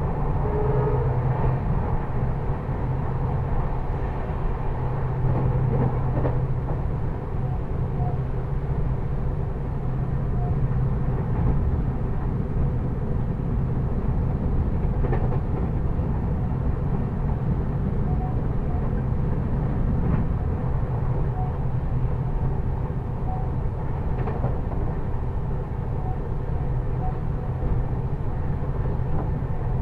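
Express passenger train passing at speed without stopping: a steady, loud running noise of coach wheels on the rails, with a few faint clicks.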